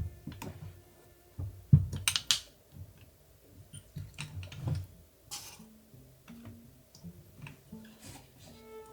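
Scattered clicks and light knocks of small model-kit parts being handled and fitted, the sharpest a couple of seconds in, over soft background music.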